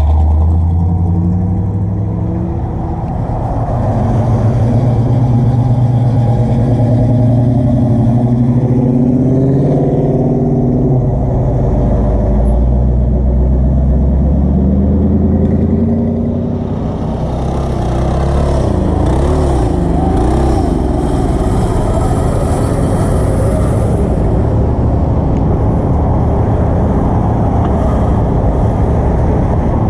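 Car engines running and pulling away as show cars roll out, the engine notes rising and falling as they drive past.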